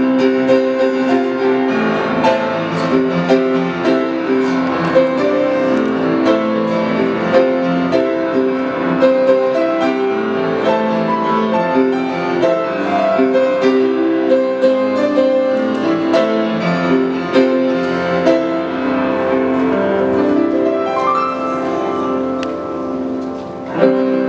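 Solo piano playing a live piano arrangement of a pop song, with many notes moving steadily over a held bass line.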